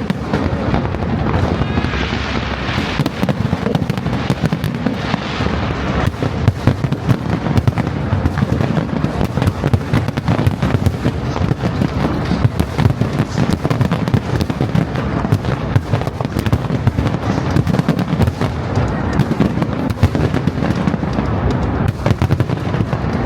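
Fireworks display in full barrage: many sharp bursts a second, piling into a continuous loud rumble, with spells of crackling and hissing shells.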